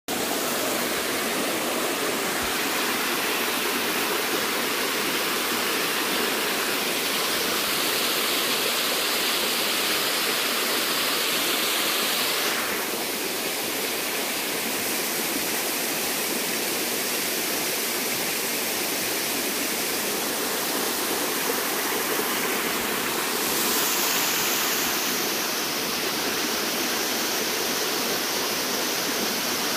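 Steady rush of water falling over a waterfall. Its tone shifts abruptly a few times, brighter then duller.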